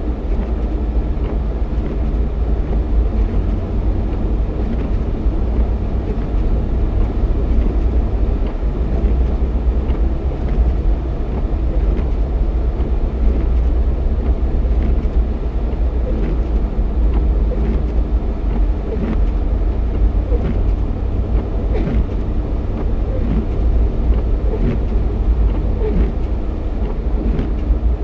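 Jeep Cherokee XJ driving at a steady speed: a constant low rumble of engine and road noise with no change in pace.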